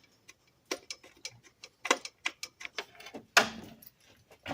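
Irregular sharp clicks and taps of a hand tool as a bolt is threaded back into the engine block by hand, with one louder knock a little after three seconds in.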